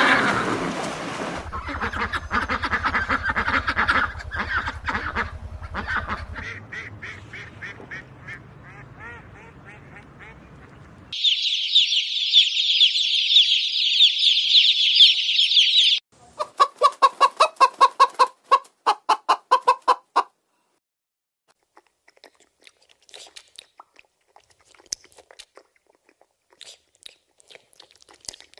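A string of separate animal sounds. A horse's whinny ends about a second in, and a rhythmic patter follows until about eleven seconds. Then a flock of young chicks peeps densely and high for about five seconds, followed by about a dozen short, quick calls and, near the end, faint scattered clicks.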